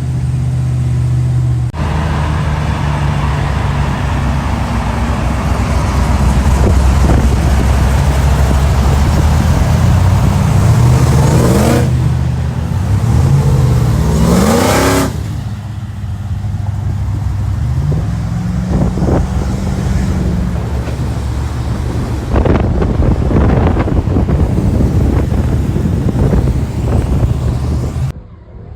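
Car engine running loudly and revving up several times, its pitch rising in sweeps about midway through and again later.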